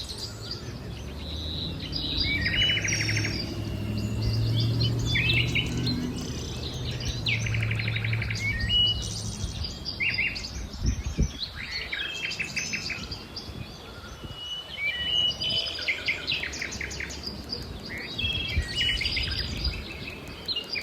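Birds chirping and twittering: short bright calls and quick rattling trills, one after another, over a low steady rumble that fades out about halfway through.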